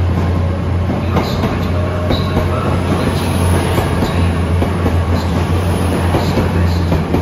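Class 800 bi-mode train pulling out and rolling past on diesel power. A steady low drone from its underfloor diesel engines sits over dense wheel-and-rail noise, with scattered clicks from the wheels on the track.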